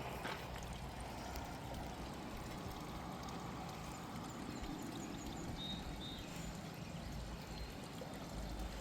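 Creek water flowing steadily, with a couple of faint high chirps about two-thirds of the way through.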